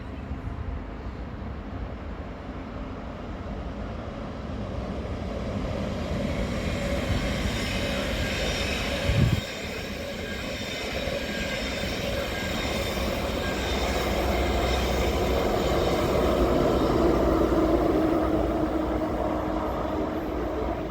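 A train running along the station tracks, growing louder over several seconds, with a high wheel squeal. A brief thump comes about nine seconds in.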